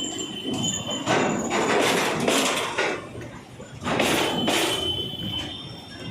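Wagons of a double-decker goods train rolling past, their wheels clattering over rail joints in a series of heavy surges about a second or so apart. A thin high wheel squeal comes and goes over the clatter.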